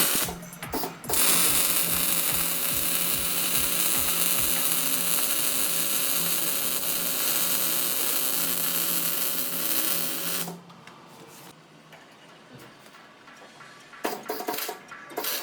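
A power tool in a fabrication shop runs steadily for about nine seconds, a loud even hiss with a faint steady hum under it, then stops suddenly. Music with a beat plays briefly at the start and again near the end.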